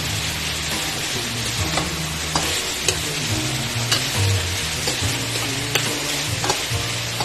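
Frog meat sizzling as it stir-fries in a stainless steel wok. A spatula stirs it, scraping and knocking against the pan several times at irregular intervals.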